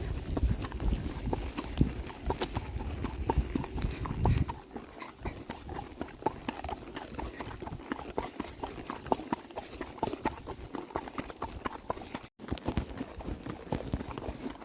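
Horse hooves clip-clopping at a walk, an irregular run of sharp hoof strikes. A loud low rumble sits under them for the first four seconds or so, then stops abruptly.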